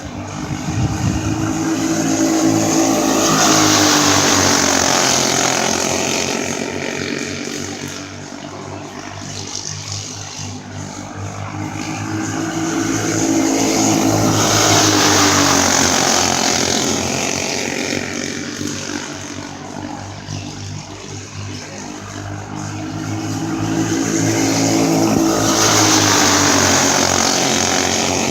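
Racing go-kart engines running at speed as the karts lap the track. The sound swells loud as the karts pass about every 11 seconds, three times, then fades as they go round the far side.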